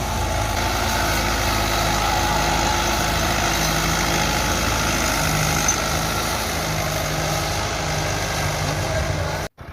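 Farm tractor engine running steadily while ploughing, then cut off abruptly just before the end.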